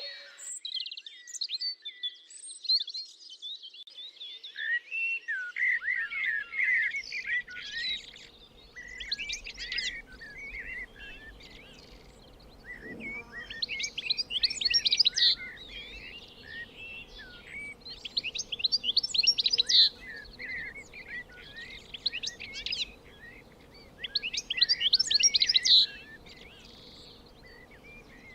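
Wild songbirds singing, with chirps and whistles overlapping throughout. One bird repeats a loud, fast, trilled song phrase about every five seconds.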